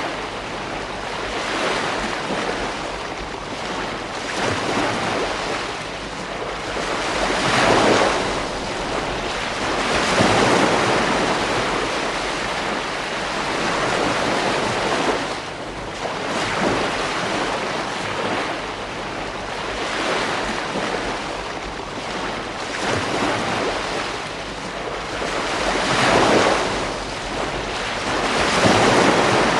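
Ocean waves breaking on a beach: a continuous wash of surf that swells and recedes every few seconds, with the biggest breakers about a quarter of the way in, a third of the way in and near the end. A little wind noise on the microphone runs under it.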